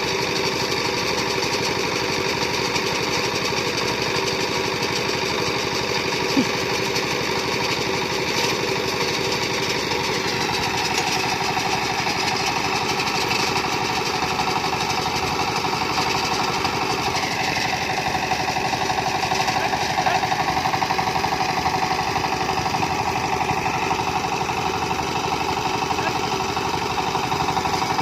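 Tractor diesel engine running steadily, its pitch shifting about ten seconds in and again a few seconds later as the speed changes.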